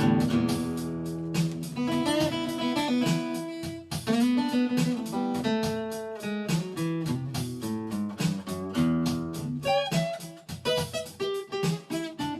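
Guitar instrumental break with no singing: strummed and picked chords, thinning to separate plucked notes near the end.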